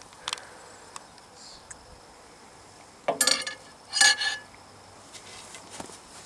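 Two loud clattering clinks of hard objects about a second apart, with a few lighter clicks before them. It is typical of the microwave and its contents being handled after the battery exploded.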